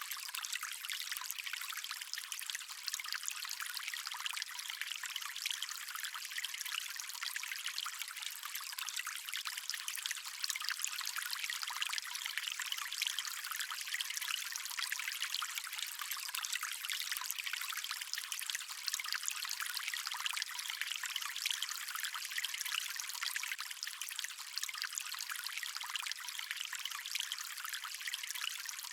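Stream water running and trickling steadily, a continuous light splashing with no deep rumble.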